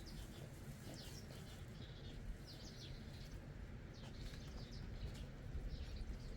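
Small birds chirping: short, high, falling chirps every half second to a second, over a low steady rumble.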